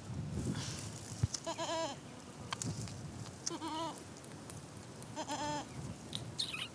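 Goats bleating: three wavering, quavering calls about a second and a half apart.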